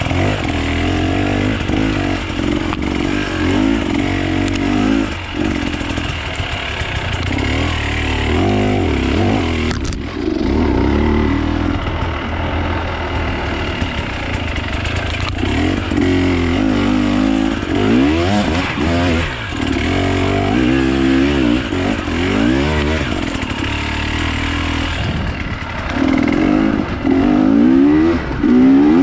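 Off-road dirt bike engine revving up and dropping back again and again, the engine note rising and falling under short bursts of throttle.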